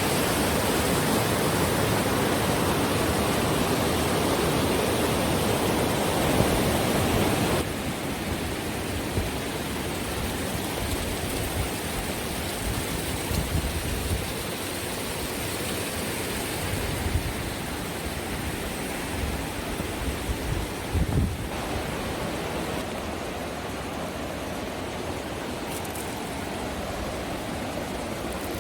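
Steady rushing of river rapids and waterfalls, with no pitch to it. It drops abruptly to a lower level about a quarter of the way in and changes again about three quarters through. A few low thumps come in the quieter stretch.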